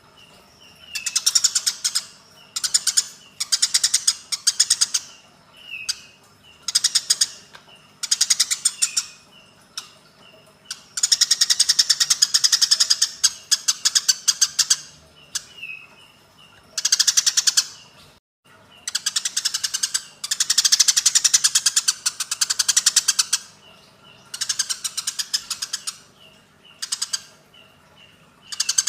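Eurasian tree sparrows' fighting calls: bursts of rapid, harsh chattering chirps, each burst lasting from under a second to about three seconds, with short pauses between.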